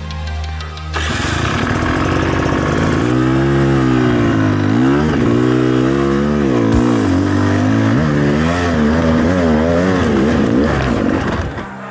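Background music for about the first second, then a Rieju MR300 dirt bike engine running under load off-road, its pitch rising and falling over and over as the throttle is worked, until near the end.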